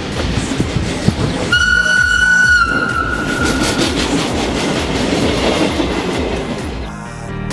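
Regional electric train running along the track, with a few clicks of the wheels in the first second. About a second and a half in it sounds one steady horn blast lasting about a second, which fades out.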